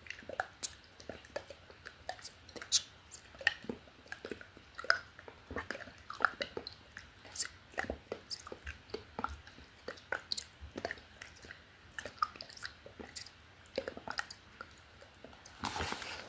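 Close-miked ASMR mouth sounds: irregular wet clicks and smacks of the lips and tongue, several a second, with a breathy rush near the end.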